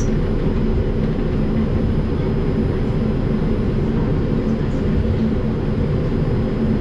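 Steady low rumble inside an R142 subway car, with a faint steady hum underneath.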